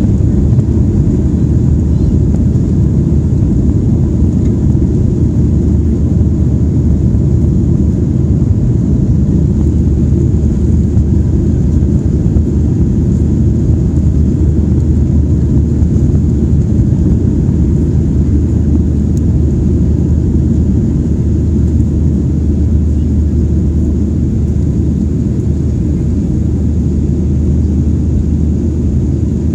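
Boeing 737 in its climb after takeoff: a steady low rumble of jet engines and airflow, easing slightly near the end.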